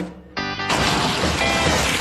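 Cartoon soundtrack of music mixed with crash-like sound effects. The sound drops briefly at the start, then a buzzy tone cuts in about a third of a second in.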